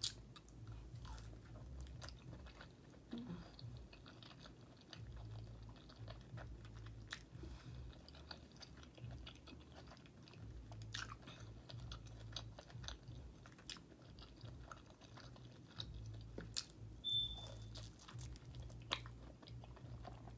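Close-miked chewing of soft baked lobster tail meat, with scattered small wet mouth clicks and smacks.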